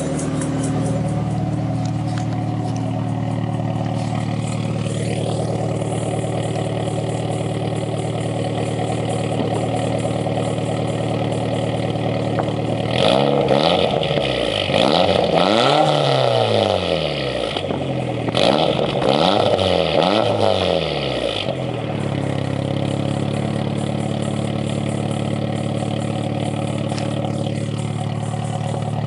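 Toyota 3S-GTE turbocharged four-cylinder engine idling steadily through an aftermarket Blitz Nur Spec exhaust, revved up and let fall back several times in a row about halfway through, then settling back to a steady idle.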